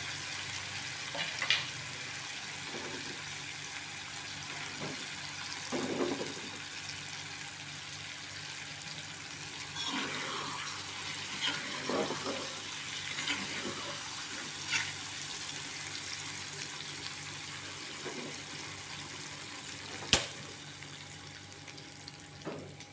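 Chilli sambal sizzling steadily in an aluminium wok while a metal spatula stirs it, scraping and knocking against the pan now and then, with one sharp clack about 20 seconds in.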